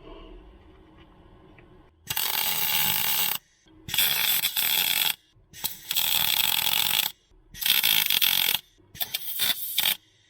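Welding on car body steel in short runs: five bursts of arc noise, each about a second long, starting and stopping sharply with brief pauses between.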